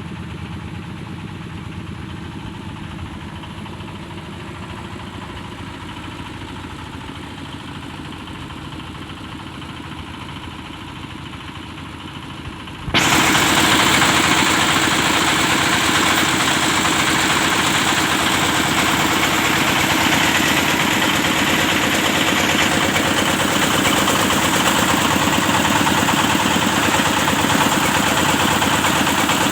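Engine of a hydraulic well-drilling rig running steadily. About 13 seconds in, the sound jumps abruptly to a louder, harsher running noise that then holds steady.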